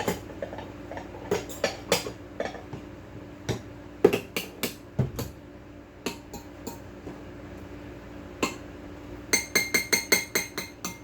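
A utensil clinking and knocking against a dish of cooked pasta, in scattered knocks. Near the end comes a quick run of ringing taps.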